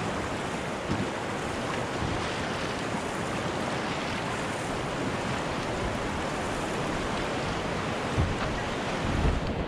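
Steady rush of river water running through a shallow rocky stretch, with a couple of low thumps near the end.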